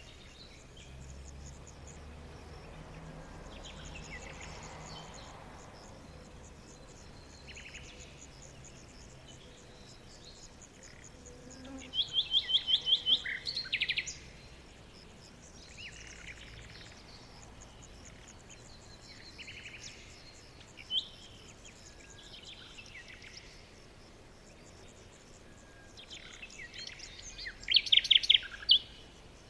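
Forest birds singing: several songbirds giving scattered chirps and short phrases, with two loud runs of rapid repeated notes, one about halfway through and one near the end.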